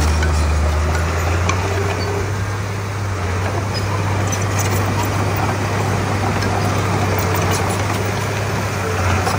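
Komatsu D31P crawler bulldozer's diesel engine running steadily under work, a deep continuous drone with faint scattered clicks over it.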